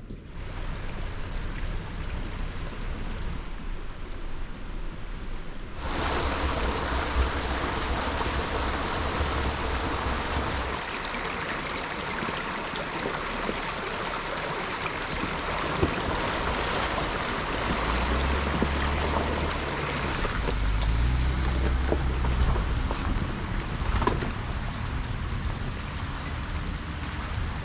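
Jeep Gladiator driving slowly over a rough trail: a low engine rumble under a steady rushing noise that gets louder about six seconds in.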